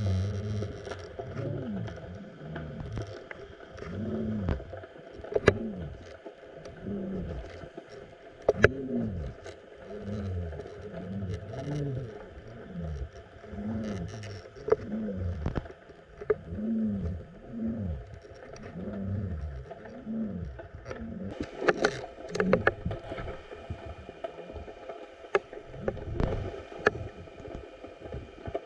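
Water sounds heard underwater through a GoPro's waterproof housing: low moaning sweeps that rise and fall about once a second, with scattered clicks and knocks against the housing.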